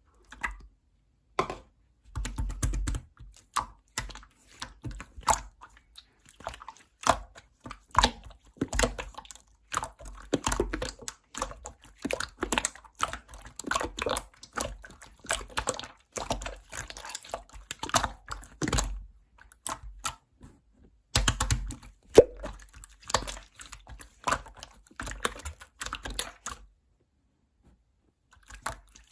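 Slime being squeezed and pressed by hand, giving rapid, irregular crackling clicks and pops, with a couple of short pauses.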